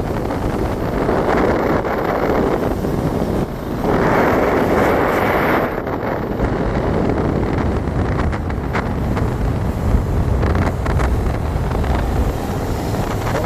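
Wind buffeting the microphone: a loud, steady rush with a low rumble that grows heavier about halfway through.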